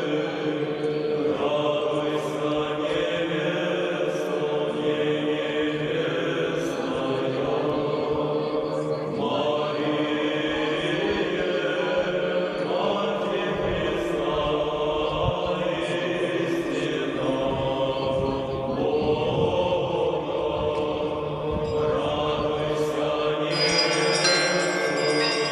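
A group of voices singing Orthodox church chant in sustained, held notes. Near the end, bells begin ringing over the singing.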